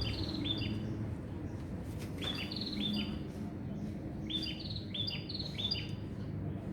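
Small songbirds chirping: clusters of short, high, repeated notes that come in bursts every second or two, over a low steady hum.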